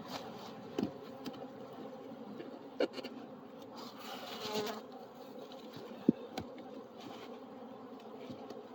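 Honey bees buzzing in a steady hum around an opened hive, with a few sharp knocks, the loudest about six seconds in.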